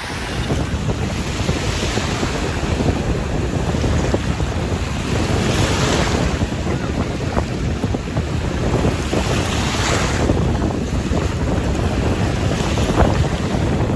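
Caspian Sea surf breaking and washing on the shore, with a swell of surf every few seconds. Strong wind buffets the microphone with a steady rumble.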